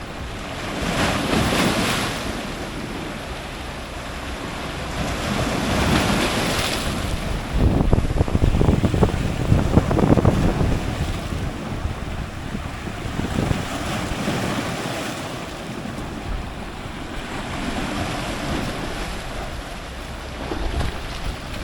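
Strong ocean surf breaking close to the waterline, waves surging in and washing back in repeated swells. The heaviest wave crashes about eight seconds in with a deep rumble lasting a few seconds, followed by smaller surges.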